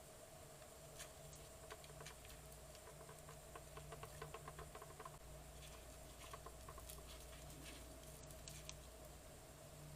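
Faint scattered clicks and light tapping over a low steady hum, with a quick run of ticks a few seconds in.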